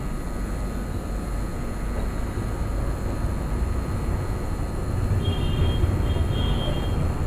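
Passenger train running on the line: a steady low rumble and rushing noise of the moving coach.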